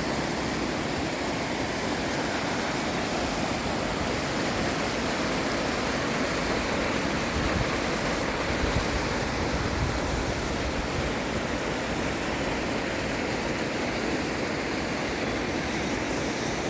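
Mountain valley stream rushing steadily over rocks, a constant even roar of water, with a few brief low rumbles a little past the middle.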